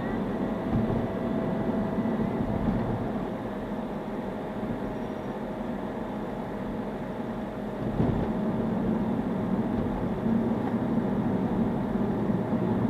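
Steady car cabin noise, a low rumble of road and engine, recorded by a dashboard camera inside the car, with a faint steady whine over it.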